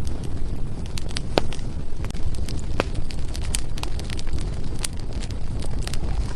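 Firewood burning in a fireplace, with irregular sharp crackles and pops from the logs over a steady low rumble. A few louder pops are scattered through.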